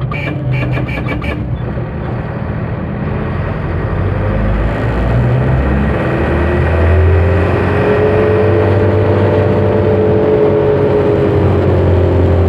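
Truck engine running as the truck drives, with a steady low drone that grows louder from about four seconds in and a whine that rises and then falls in pitch. A rapid run of clicks in the first second and a half.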